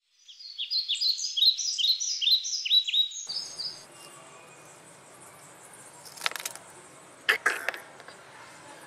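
A bird singing a quick run of high chirps, each sweeping downward, for about three seconds. Then faint outdoor ambience with a few soft clicks.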